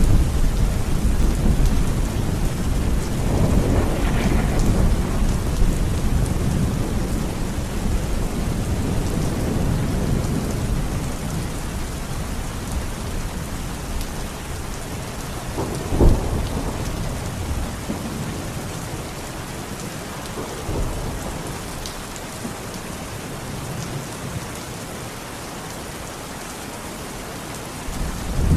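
Heavy rain falling steadily with rolling thunder: a long low rumble that dies away over the first half, a sharp thunderclap about 16 seconds in, and a fresh rumble building near the end.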